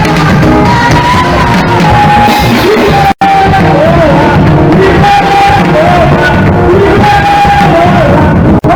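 Choir singing a carol with instrumental accompaniment, very loud, with the sound cutting out for an instant about three seconds in and again near the end.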